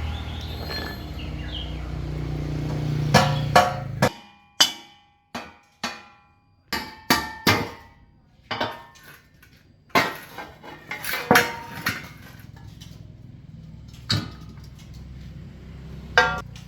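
A power tool running steadily cuts off about four seconds in. Then a hammer strikes metal in a string of sharp, ringing blows at an uneven pace, with two last strikes near the end over a low hum.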